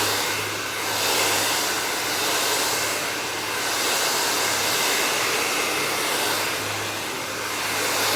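Handheld hair blow dryer running steadily, its rush of air swelling and easing every couple of seconds as it is worked over the hair with a vent brush.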